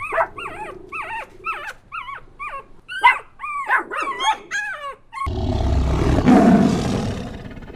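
Repeated short, high-pitched animal cries, two or three a second, each rising and falling in pitch. About five seconds in they stop and a loud, rough, noisy sound begins, then fades.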